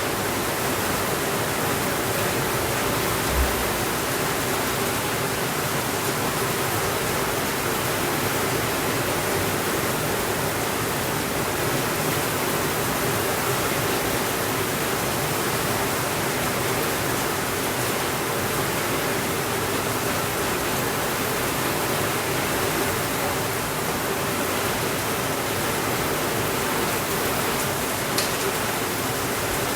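Steady rainfall, an even dense hiss with no thunder. A single short low thump comes about three seconds in, and a faint click near the end.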